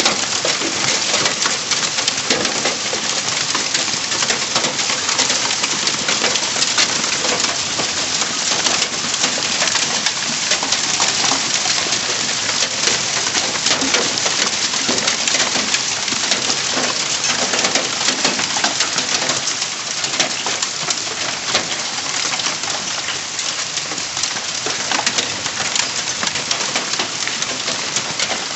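Hail falling and striking hard surfaces: a dense, steady clatter of countless small impacts that keeps up throughout.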